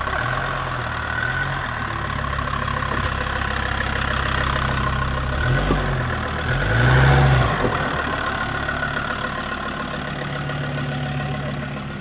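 Off-road 4x4's engine running at low revs, with two short surges in revs about halfway through, the second one louder.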